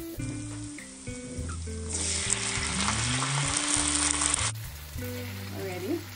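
Fermented black beans sizzling as they hit hot oil with garlic, ginger and chili in a wok: a loud, even sizzle from about two seconds in that stops abruptly about four and a half seconds in. Background music with a steady low bass runs underneath.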